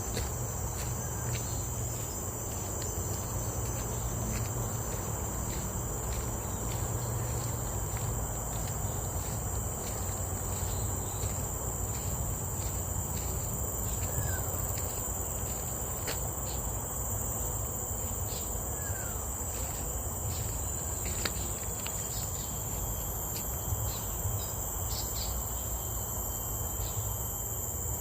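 Insects, likely crickets, keep up a steady high-pitched drone over a low rumble, with a couple of faint short chirps in the middle.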